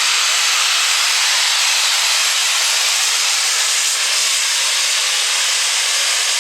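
Super stock diesel 4x4 pulling truck at full throttle under load on a pull, heard as a loud, steady rushing noise with no clear pitch.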